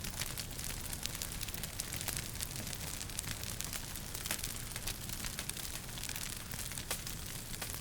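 Wood fire crackling in a fireplace: frequent sharp pops and snaps over a steady low rumble and hiss.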